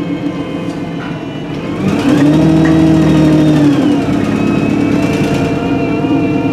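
Alexander Dennis Enviro300 bus engine pulling, heard from on board. It rises in pitch and gets louder about two seconds in, holds, then drops near four seconds as the Voith four-speed automatic gearbox changes up, with a gearbox whine running throughout. The bus has a blown exhaust.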